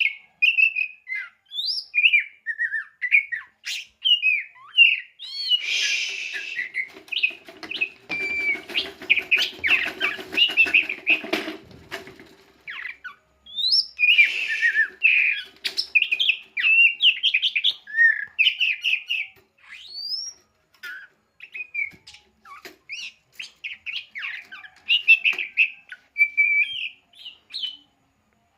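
Oriental magpie-robin (kacer) singing a long, varied song of quick phrases that glide up and down, with a rustling noise under the song for several seconds in the middle.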